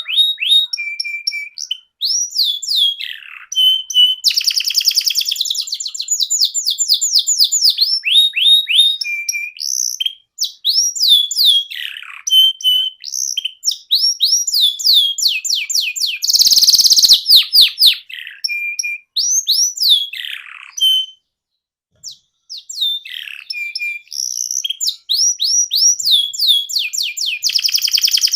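Domestic canary singing a long, loud song of fast rolling trills of repeated falling notes mixed with short held notes, with a harsh buzzy phrase a little past the middle and a brief pause soon after.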